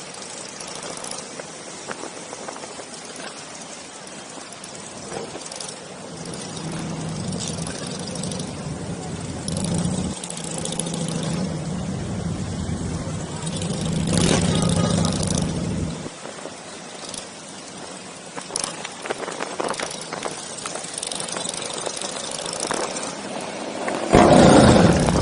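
Motorcycle engines running. A steadier, louder engine note holds through the middle and cuts off about two-thirds of the way in, and there is a brief loud burst near the end.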